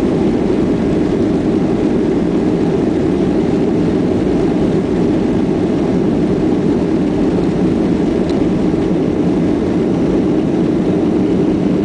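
Boeing 737 jet engines running at takeoff power with rushing air, a loud, steady noise that neither rises nor falls.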